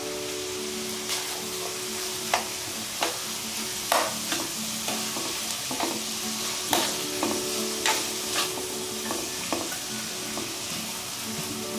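Chopped pig's ear sisig with onions and chilies sizzling in a nonstick frying pan while a metal spatula stirs and scrapes through it. Sharp clacks of the spatula against the pan come at irregular intervals, about once a second.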